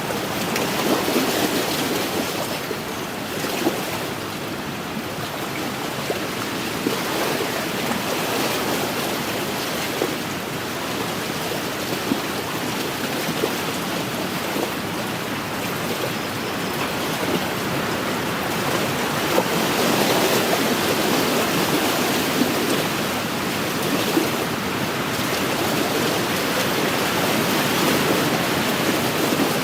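Small wind-driven waves washing against an inland lakeshore, a steady rushing that swells and eases every few seconds, with wind blowing over it.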